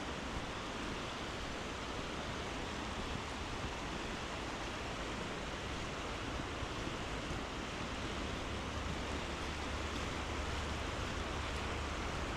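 Steady rushing noise of water, even and unbroken, with a low rumble underneath.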